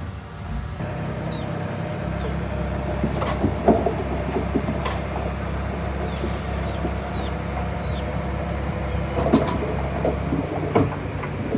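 Komatsu D31P bulldozer's diesel engine running steadily, with scattered sharp metallic clanks and knocks from the machine at work.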